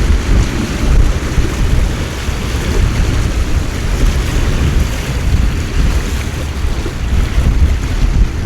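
Heavy torrential rain pouring steadily, with gusty wind buffeting the microphone in a fluctuating low rumble.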